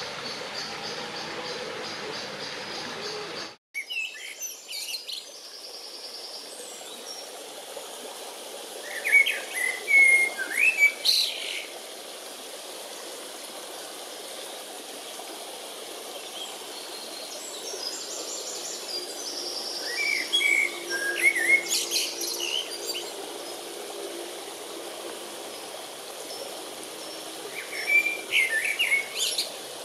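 A small bird singing short, high phrases three times, about every nine seconds, over the steady rush of a brook. The sound drops out abruptly for a moment about three and a half seconds in.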